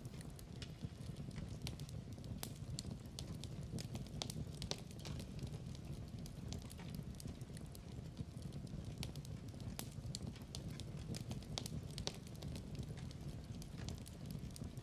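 Wood fire crackling in a fireplace: a quiet, steady low rush of burning with irregular sharp pops and snaps scattered throughout.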